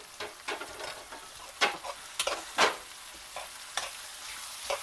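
Beef mince and browned onions frying in hot oil in a pan, with a steady sizzle. It is being stirred, with about seven sharp scrapes and knocks against the pan.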